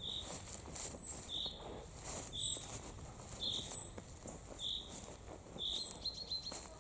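A songbird calling over and over: a short high note about once a second, each with a thin falling whistle above it. Faint taps and rustles underneath.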